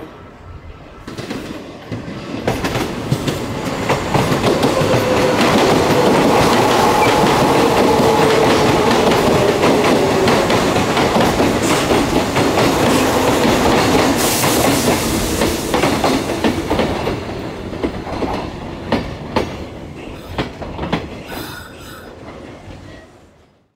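Kintetsu electric commuter train running into the station, its wheels clicking over rail joints, with a faint tone that slowly falls. The sound builds over the first few seconds, stays loud for about ten seconds, then fades away.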